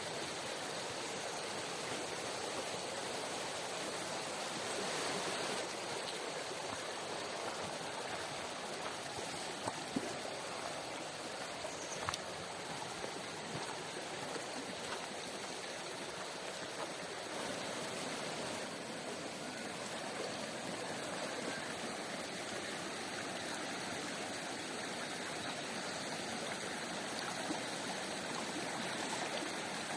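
A stream flowing: a steady rush of running water. A few short clicks stand out briefly about ten and twelve seconds in.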